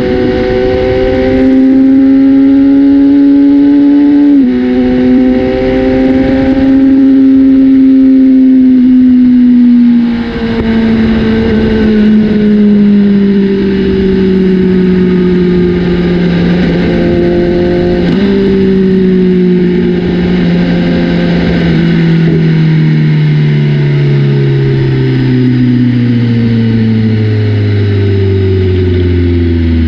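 BMW S1000RR inline-four motorcycle engine through an aftermarket Austin Racing exhaust, revving up through the gears with an upshift about four seconds in. From about ten seconds in, the engine note falls steadily as the bike slows, with one downshift jump in pitch around eighteen seconds.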